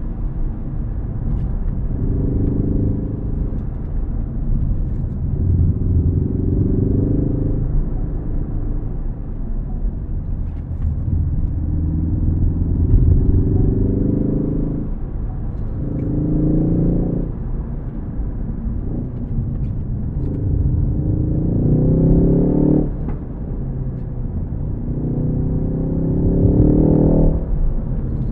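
Ford Focus ST's turbocharged engine pulling hard through the revs in repeated climbs, about six times, each rising pitch cut off sharply before the next, over a steady low rumble of road noise.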